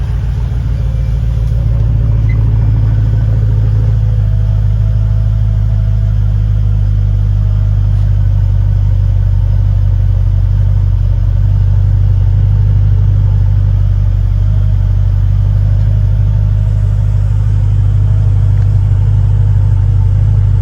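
Mercedes-Benz SL55 AMG's supercharged 5.4-litre V8, fitted with the K8 power package, idling steadily from cold, heard at the exhaust: a steady low rumble.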